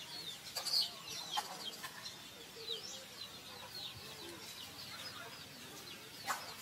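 Birds chirping continuously in the surrounding trees, many short quick chirps, with a few sharp clicks; the loudest click comes about a second in, another near the end.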